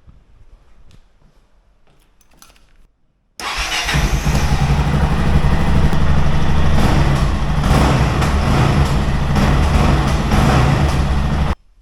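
Yamaha XT660Z Ténéré's 660 cc single-cylinder four-stroke engine starting about three seconds in and running steadily through a newly fitted Exan aftermarket exhaust, then stopping suddenly near the end. A few faint clicks come before it starts.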